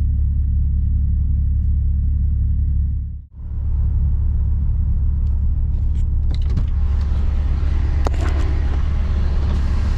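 Diesel truck engine idling, a steady low rumble heard inside the cab. The sound dips out briefly about three seconds in, and in the second half more outside noise and a few clicks join it.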